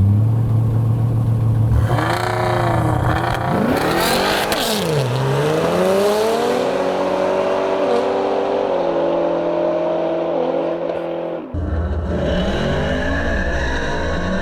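A race car engine revving and accelerating hard, its pitch climbing in steps as it changes gear. About eleven seconds in the sound changes abruptly to another low engine rumble with more rising revs.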